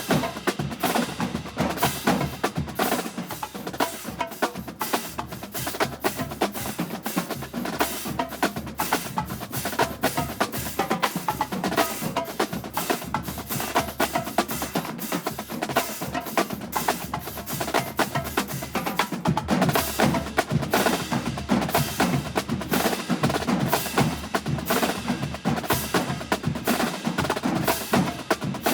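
Marching band drumline playing a cadence: snare, tenor and bass drums striking in a rapid, steady rhythm.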